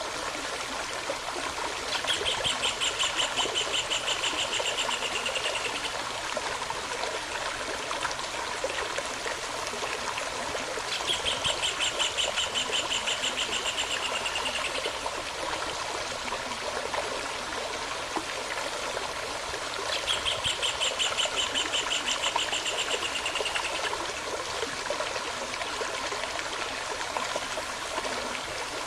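Small stream running with a steady rush of water. Over it a rapid pulsed trilling call sounds three times, about nine seconds apart, each lasting three to four seconds and falling slightly in pitch.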